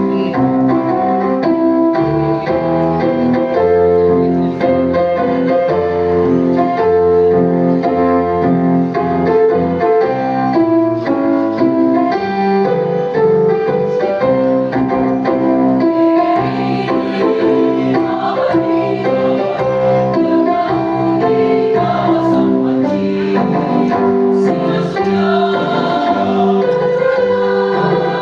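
Choir singing with piano accompaniment, a sustained multi-voice piece that grows fuller about halfway through.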